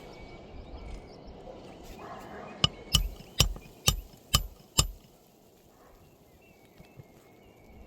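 Six sharp metallic strikes with a brief ringing, about two a second, in the middle: a hammer striking a roofing snake worked under brittle asphalt shingles.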